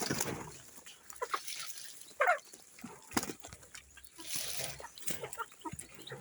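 Short animal calls, the clearest one a little over two seconds in, among intermittent bursts of noise.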